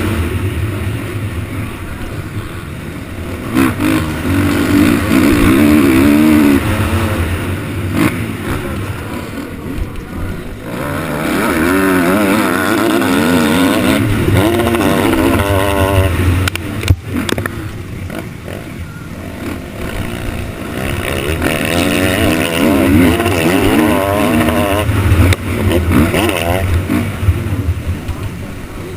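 Motocross bike engines revving hard, their pitch rising and falling over and over as the throttle opens and closes.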